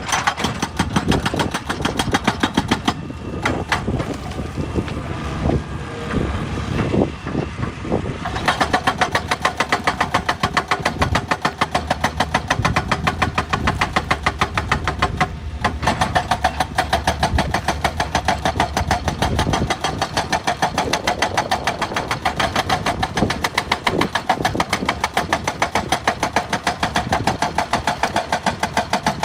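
Excavator diesel engine running under load with a fast, even pulsing, with a few louder knocks in the first eight seconds.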